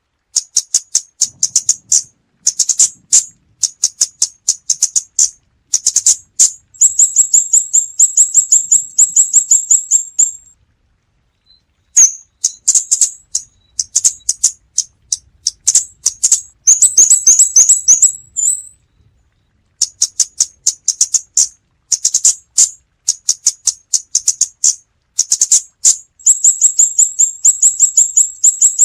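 Scarlet-backed flowerpecker calling: rapid runs of sharp, high-pitched ticking notes in bursts of a second or two, with brief pauses between. Background noise has been filtered out, leaving silence between the calls.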